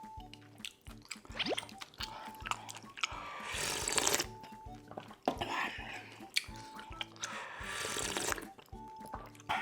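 Background music over close-miked eating sounds of a person eating ramen and deep-fried beef large intestines (daechang), loudest in three noisy bursts about three and a half, six and eight seconds in.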